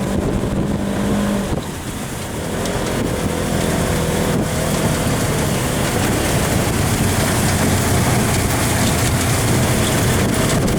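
Polaris RZR side-by-side engine running while driving, with wind and rattle noise; its pitch drops suddenly about a second and a half in, then holds steady.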